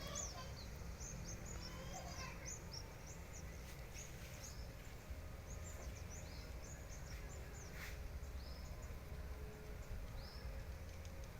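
Short, high chirps from a flock of swiftlets flying about, coming in scattered quick notes all through, over a steady low rumble.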